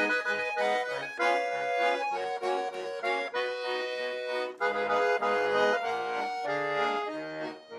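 Accordion playing a lively folk tune, with melody and chords over a bass that steps back and forth in a steady rhythm. It is the instrumental lead-in before the singing of a Russian folk song.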